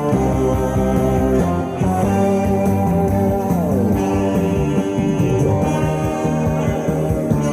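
Alto saxophone playing a Korean trot melody over a backing accompaniment with guitar, with a downward slide in pitch about halfway through.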